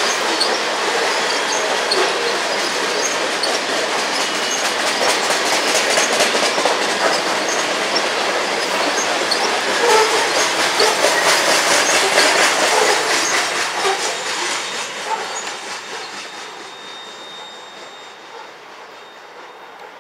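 Covered hopper cars of a freight grain train rolling past close by, their steel wheels clattering rhythmically over the rails. The sound fades away over the last few seconds as the end of the train passes and moves off.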